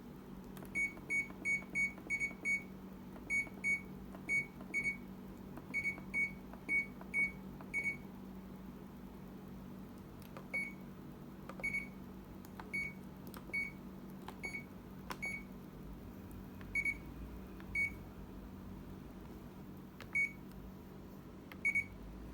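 Short electronic beeps from a Sharp ES-7-WL drum washer-dryer's control panel as its buttons are pressed. They come in quick runs at first, then singly about a second apart, over a low steady hum.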